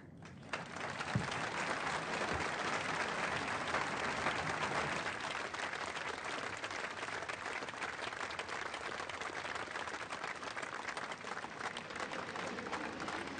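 An audience applauding, starting about half a second in and keeping up a steady clapping.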